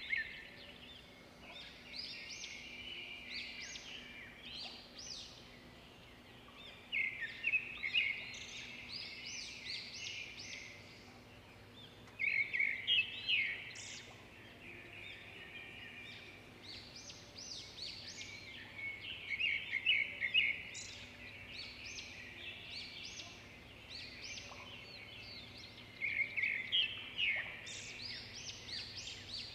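Birdsong: a small bird repeats a quick run of high chirps about every six to seven seconds, with softer chirping in between.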